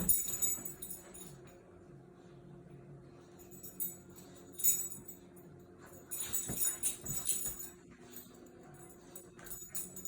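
Short bursts of light metallic jingling, about four times, over a faint steady hum.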